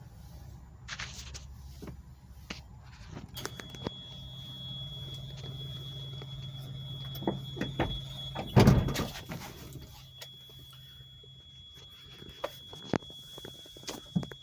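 Truck refrigeration unit being switched on: a low hum, and from about three seconds in a steady high-pitched tone, with scattered clicks and one loud knock about eight and a half seconds in. The low hum stops about ten seconds in while the high tone carries on.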